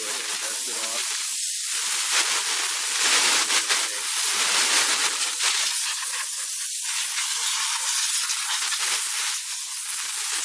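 A loud, steady hiss like rushing steam or spray.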